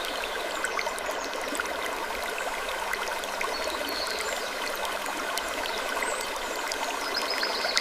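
Steady rushing, water-like noise scattered with small ticks, with a faint high creak coming back about every four seconds, as in a looped creaking-wood ambience.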